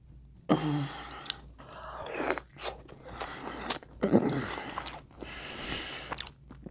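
Close-miked chewing and biting of food, with irregular wet mouth clicks and crunches. A muffled word is spoken through a full mouth about four seconds in.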